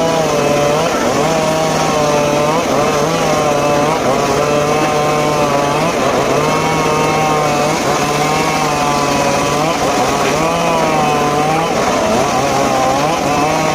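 Petrol-engined saw running hard while cutting teak wood, its engine pitch wavering up and down every second or two as it takes the load.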